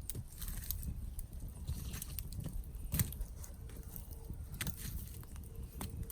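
Wood campfire burning, crackling and popping irregularly over a low rumble of the flames, with one louder pop about three seconds in.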